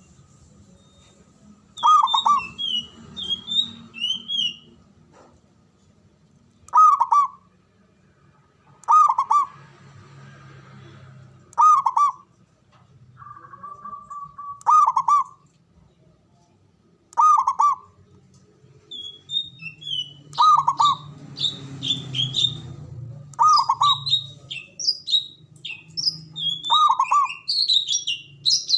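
Zebra dove (perkutut) cooing: a loud, short coo phrase repeated about every two to three seconds. Smaller birds chirp higher in between, busier in the second half.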